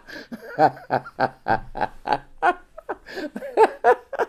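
A man laughing in a long run of short pitched 'ha' bursts, about three to four a second.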